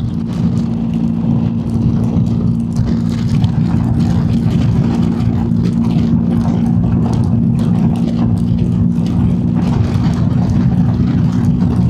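BMW R1250GS Adventure's boxer-twin engine running at a steady cruising speed, its pitch holding level, under a constant rush of wind and road noise on the move.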